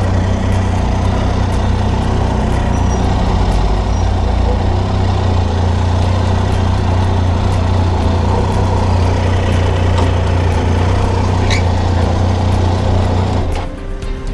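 Triumph Tiger 800's three-cylinder engine running steadily under way, with rushing wind and road noise. The engine sound drops away sharply near the end.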